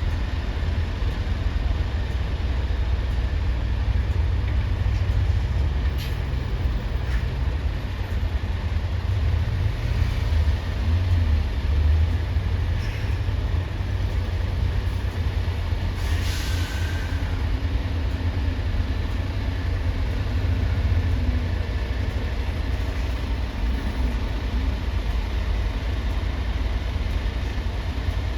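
Steady low engine rumble of heavy vehicles, with a short hiss about 16 seconds in.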